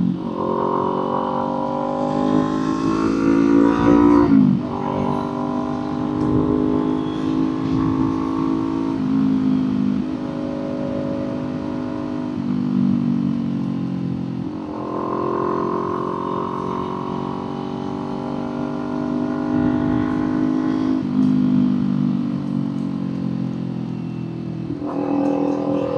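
Kawasaki Z400 parallel-twin engine and exhaust under way, the revs climbing and then dropping sharply several times as the rider accelerates and shifts gears, with stretches of steadier cruising and easing off between.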